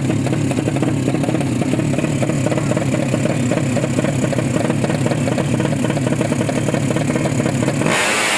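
Underbone motorcycle's 200cc horizontal single-cylinder race engine running at steady revs. Near the end it cuts abruptly to guitar music.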